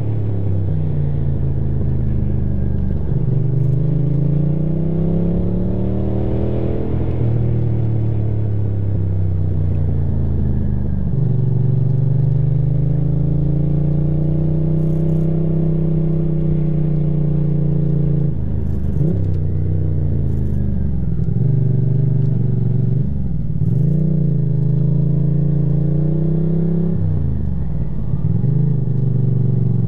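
Ducati motorcycle engine under way, its note rising and falling as the rider accelerates and eases off, with several quick drops in revs from about ten seconds in.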